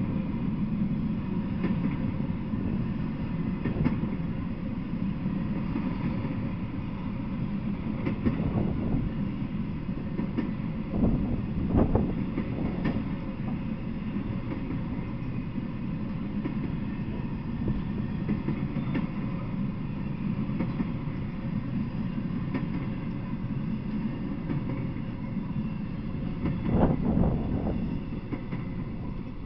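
Freight train of empty flatcars rolling past: a steady rumble of wheels on rail with occasional clanks and knocks, a louder cluster near the middle and another near the end, then dropping off as the last car goes by.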